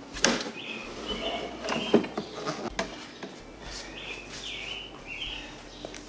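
A songbird singing repeated short chirping phrases, with a few knocks and clunks in the first two seconds, the loudest about two seconds in, as the tipped mower is handled.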